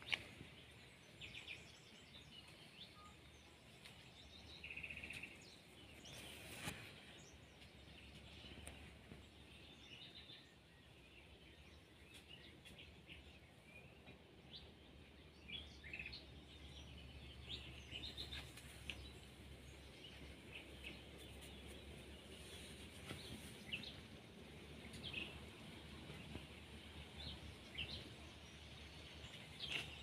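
Faint birdsong outdoors: scattered short chirps from small birds over a low, steady background hum of open air.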